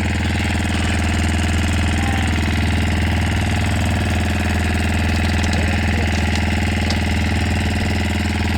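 Motor boat's engine running steadily at a constant speed.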